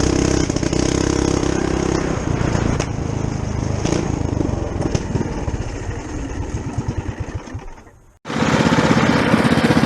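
Mini bike's small single-cylinder engine running, then winding down over several seconds, its firing beats slowing and fading until it stops. Near the end an engine is suddenly heard running again.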